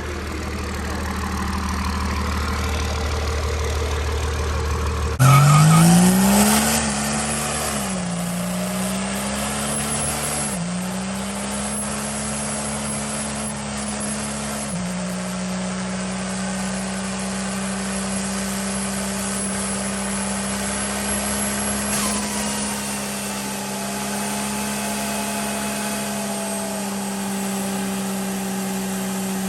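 Truck engine running low at first, then revving up hard about five seconds in. It dips and recovers a couple of times, then holds a steady high rev to the end.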